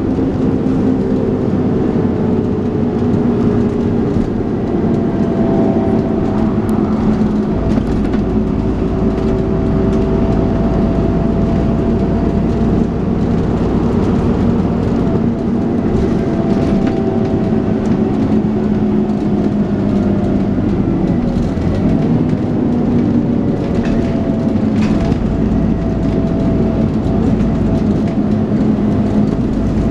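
Dennis Trident 2 double-decker bus under way, its diesel engine and driveline running with a steady drone and several whining tones that slowly rise and fall in pitch: the vacuum-cleaner-like "hoover" whine.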